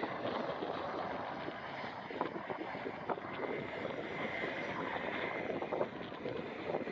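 Cessna Citation Longitude business jet's twin turbofan engines during landing: a steady rushing jet noise with a faint whine in the middle.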